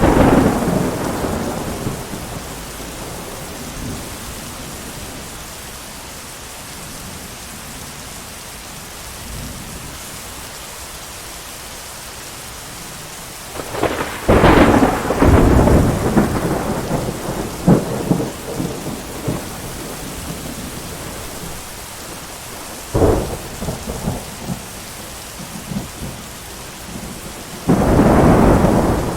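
Thunderstorm: steady heavy rain with repeated thunder. A clap at the very start fades over the first few seconds. A long rolling peal with cracks comes about halfway, then a sharp crack, and another loud rumble near the end.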